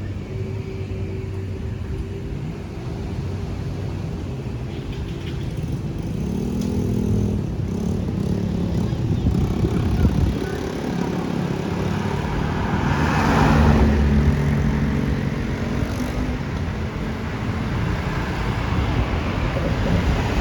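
Street traffic: vehicle engines running steadily, with one vehicle passing close and loudest about thirteen seconds in.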